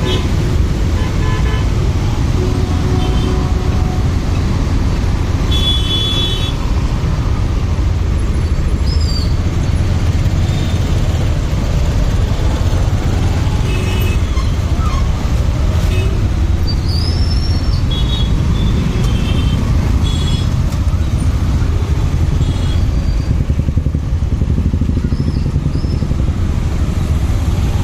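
Motorcycle riding through city traffic: a steady low rumble of engine and road noise, with other vehicles' horns sounding briefly about six seconds in and a few more times later.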